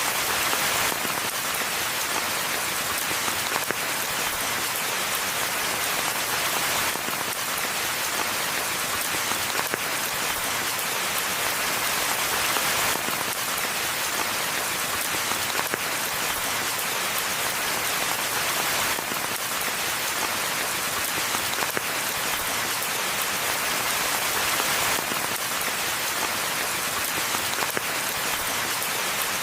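Steady rainfall in a forest: an even, unbroken hiss of many raindrops.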